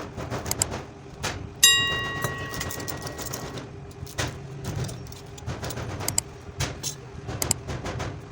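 Small metal tools and parts being handled on a workbench: scattered clicks and rattles, with one sharp metallic clink about a second and a half in that rings on for about two seconds. A steady low rumble runs underneath.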